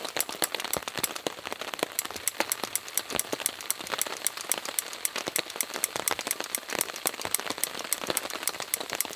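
Rain falling on a tarp: a steady hiss with many sharp, irregular taps of drops, several a second.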